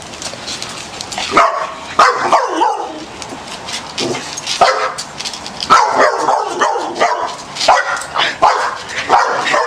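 A dog barking and yipping in a series of short, separate calls, worked up by a turtle chasing it.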